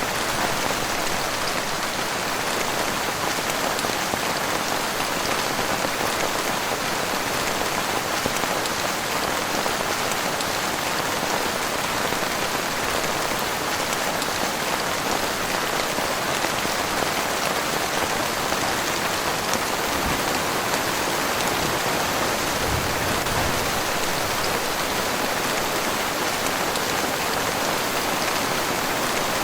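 Heavy rain falling steadily on a surface, a dense, even patter without let-up.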